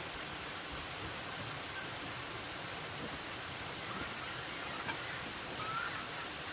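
Steady hiss of rain, with a thin unbroken high tone running through it and a few faint short chirps in the second half.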